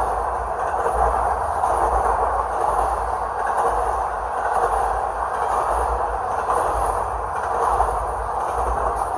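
Double-stack freight train rolling past: a steady, even rumble of wheels on rail that does not change.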